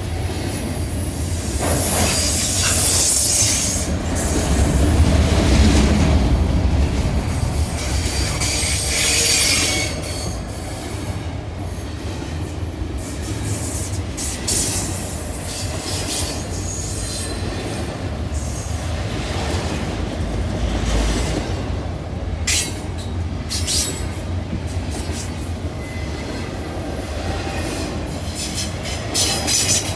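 Double-stack container cars of a freight train rolling past close by: a steady rumble of steel wheels on rail, with stretches of high-pitched wheel squeal in the first ten seconds and a run of sharp clacks near the end.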